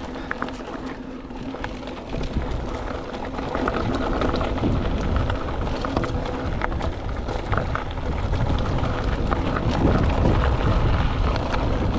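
Mountain bike riding fast over a loose-gravel trail: tyres crunching and the bike rattling over stones, with wind rumbling on the microphone. It grows louder from about two seconds in.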